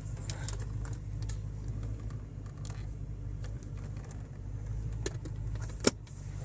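Scattered light clicks and taps of hands working switches and controls inside the car's cabin, with one sharp, louder click near the end, over a steady low hum.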